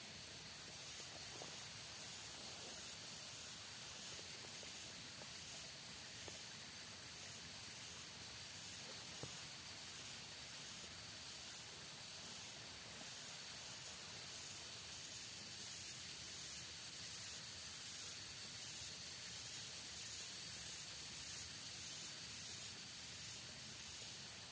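Rainforest insect chorus: a high-pitched trill that pulses evenly, a little over once a second, over a steady faint hiss.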